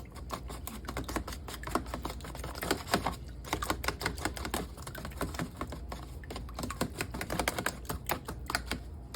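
Egg and buttermilk being whisked in a container: rapid, irregular clicking of the utensil against the sides.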